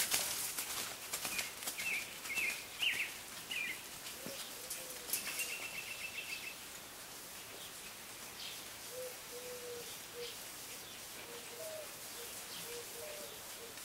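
Birds chirping in the surrounding trees, with a short trill about five seconds in and faint, lower repeated calls in the second half. Faint hoofbeats of a cantering horse on arena sand fade in the first few seconds.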